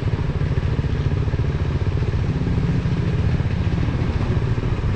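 Single-cylinder KTM Duke 250 engine running steadily while the motorcycle is ridden, an even low pulsing beat that holds without a big change in revs.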